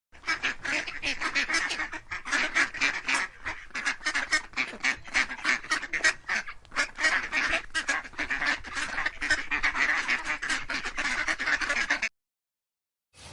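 Ducks quacking: a fast, unbroken run of short calls that stops about twelve seconds in.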